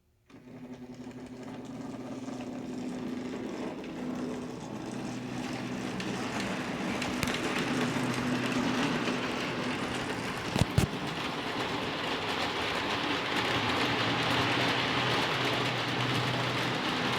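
O scale model train running on track: a steady electric motor hum with rolling wheel noise on the rails. It starts suddenly, grows louder, and has a sharp double click about ten and a half seconds in.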